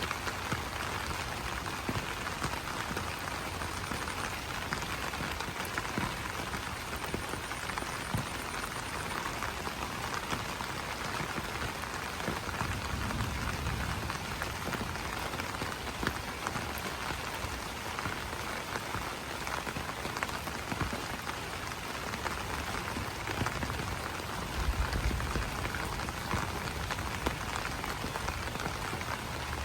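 Steady rain pattering on broad banana leaves, a dense hiss of countless small drop ticks. Twice a brief low rumble sits underneath, about two-fifths in and again near the end.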